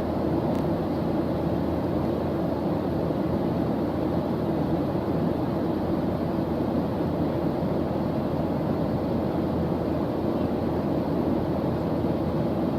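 Steady white-noise background track: an even, unbroken low hiss heavier in the low range, like a distant rumble.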